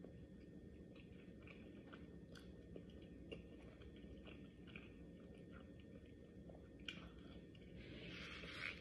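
Faint close-up mouth sounds of a person chewing food, soft smacking clicks every second or so, with a short hissing noise near the end.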